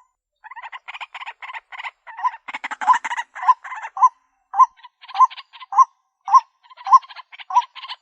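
White-breasted waterhen calling: a fast run of harsh croaking notes, then a steady series of repeated hooked notes, about one every 0.6 seconds, from about halfway through.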